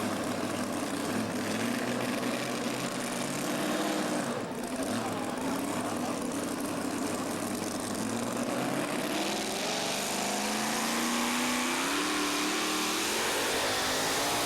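Pulling tractor's engine running hard and loud, with its pitch climbing steadily in the second half.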